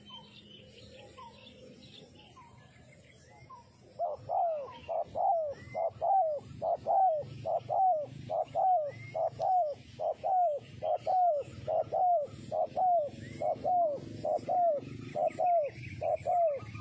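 Spotted dove cooing: about four seconds in, it starts a rapid run of short, falling coo notes, about two a second, that keeps going. Faint chirps of small birds sound now and then.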